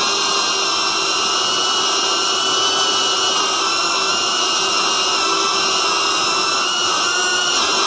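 Cinewhoop FPV quadcopter's motors and ducted propellers whining in flight: several steady high tones that waver a little in pitch as the motors adjust their speed.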